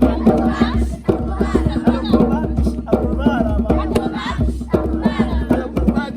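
Voices singing together over steady drumming and percussion, a lively rhythmic song.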